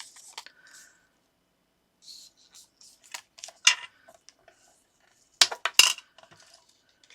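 A narrow paper strip being folded and creased by hand: scattered crisp rustles and light clicks, with a cluster of sharp clicks about five and a half seconds in.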